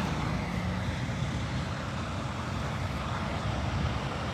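Steady highway traffic noise: vehicles passing on the interstate, with a low engine and tyre hum.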